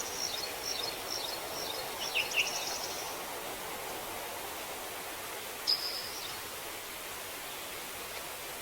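Forest ambience: a steady rushing hiss under songbirds chirping, dense for the first three seconds with a short rapid trill, then a single clear call nearly six seconds in.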